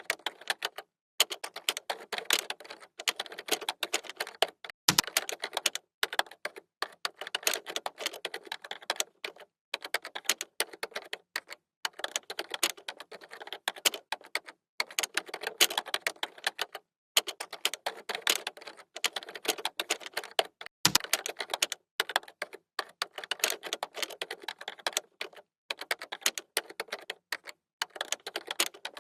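Typing on a computer keyboard: quick runs of key clicks in bursts of a second or two, with brief pauses between them.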